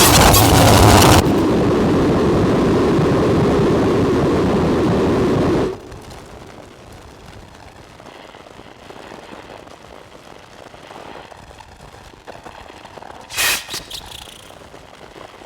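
Harsh distorted electronic noise from a modular synthesizer run through fuzz and filter pedals: a dense roar that shifts abruptly about a second in, then cuts out about six seconds in to a low, hissy bed with faint crackle, broken by one short loud burst near the end.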